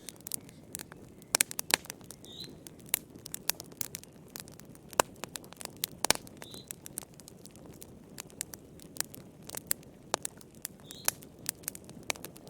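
Wood fire in a fireplace crackling: irregular sharp pops and snaps over a steady low rumble of burning. A faint, short, high chirp sounds three times, about four seconds apart.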